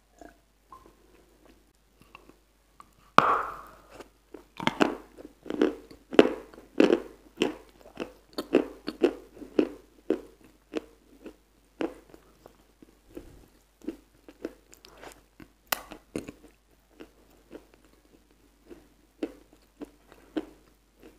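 Close-miked bite into a chunk of moist, crumbly white dessert about three seconds in, followed by rapid wet crunching chews, about two to three a second, loudest at first and growing softer.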